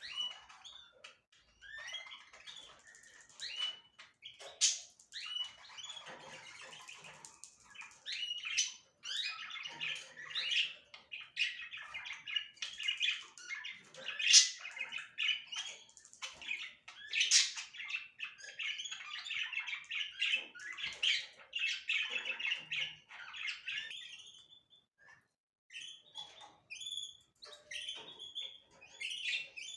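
Small cage birds such as canaries, budgerigars and goldfinches chirping and chattering together, many overlapping calls with a few sharper loud ones, pausing briefly near the end.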